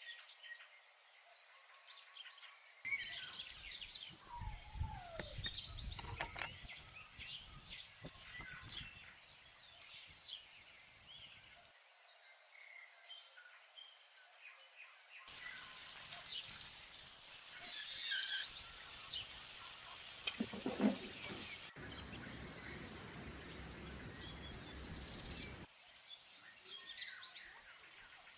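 Small birds chirping and singing in many short calls, over outdoor background noise that changes abruptly several times.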